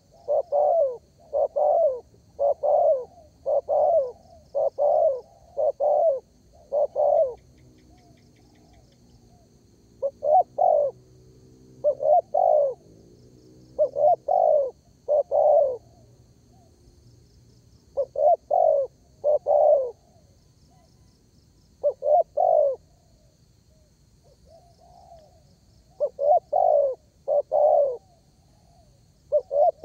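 Spotted dove cooing: a run of short, low coos in quick succession, then shorter groups of coos broken by pauses of a few seconds.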